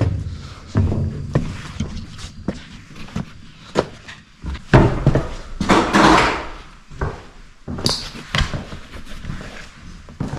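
Irregular knocks, thumps and clunks with two louder scraping rushes about five and six seconds in, as people push their way through the cramped metal inside of an abandoned train.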